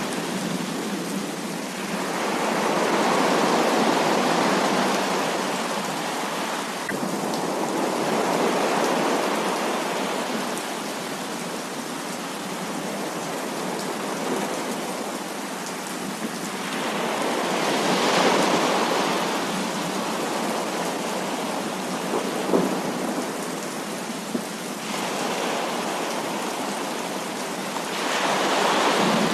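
Heavy thunderstorm rain pouring steadily, swelling louder several times in slow rolling waves, with a couple of sharp drip-like taps in the middle.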